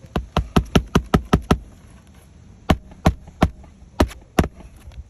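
Hammer driving roofing nails into asphalt shingles. There is a quick run of about eight blows, then three more, then two.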